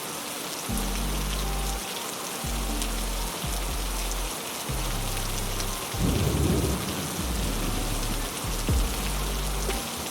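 Heavy rain falling in a steady hiss, with a low rumble of thunder swelling about six seconds in and a few sharp drop strikes near the end.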